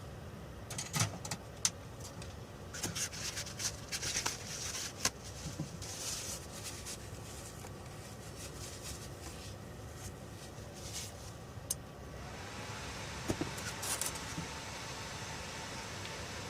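Small clicks and short scraping sounds of tools and parts being handled on a workbench, then a steady hiss that starts about twelve seconds in.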